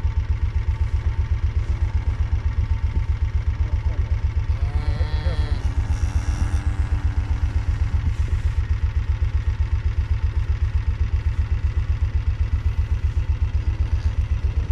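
A vehicle engine idling steadily with an even low pulse, and a cow mooing about five seconds in, its call held for a couple of seconds.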